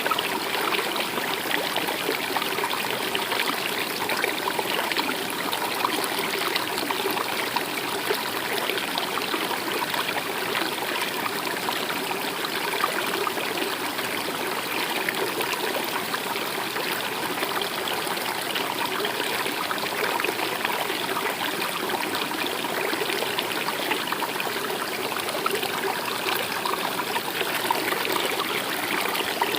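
A small river or stream running over rocks, a steady rushing trickle without pause.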